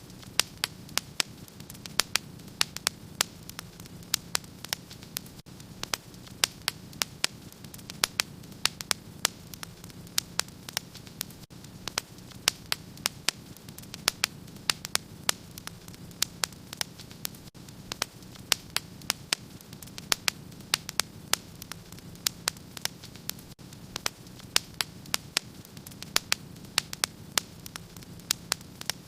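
Wood fire crackling in a fireplace: frequent sharp, irregular pops, a few each second, over a steady low rumble.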